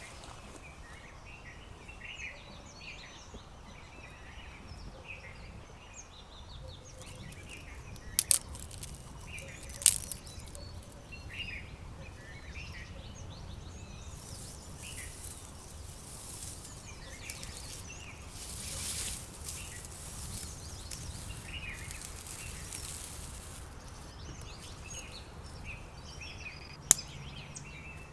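Small birds chirping again and again in short calls over a low, steady outdoor rumble, broken by a few sharp clicks, two about a third of the way in and one near the end.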